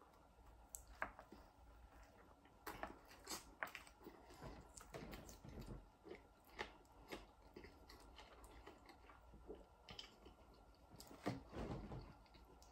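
A person biting into and chewing a Grand Mac burger loaded with extra lettuce and sauce. The chewing is quiet, with irregular short crunches and clicks, and a louder bite near the end.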